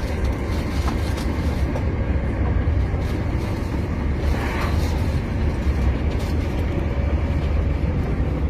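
Moving train: a steady low rumble that holds an even level throughout.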